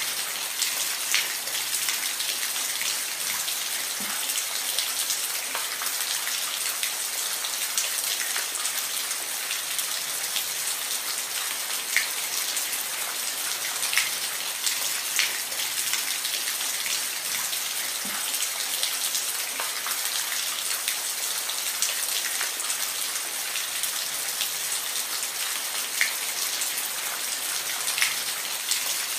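Steady rain, a continuous hiss with scattered individual drops ticking sharply at irregular moments.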